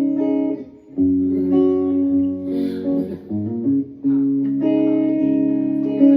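Live band playing a slow instrumental lead-in: guitar chords held over bass, with a brief break about a second in and a chord change about every three seconds.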